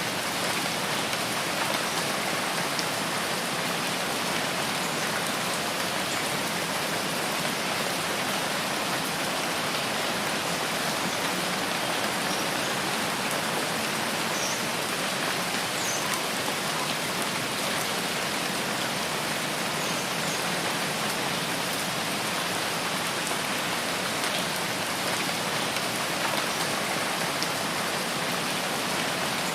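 Steady rain falling in a rain forest, an even hiss that never changes, with a few faint short high chirps partway through.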